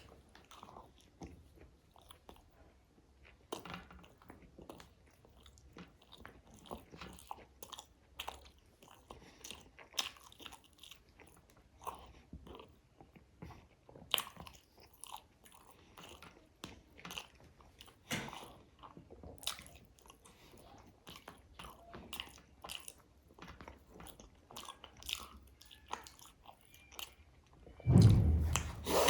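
Close-miked eating: a steady run of chewing with crisp, crunchy bites and small mouth clicks. Near the end comes one loud, low thump.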